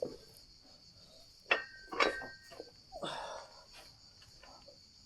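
Two sharp metallic clinks of iron weight plates against a barbell, each with a brief ring, about a second and a half and two seconds in, then a duller knock about three seconds in. Insects chirr steadily in the background.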